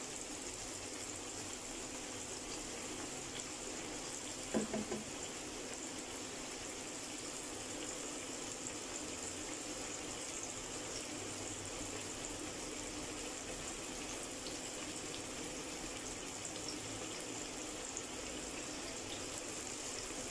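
Flour-dredged eggplant slices deep-frying in hot oil: a steady sizzle with fine crackling from the bubbling oil. One short, louder sound comes about four and a half seconds in.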